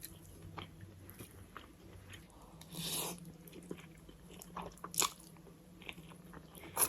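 Close-miked eating: faint chewing with scattered crunchy bites, the sharpest crunch about five seconds in.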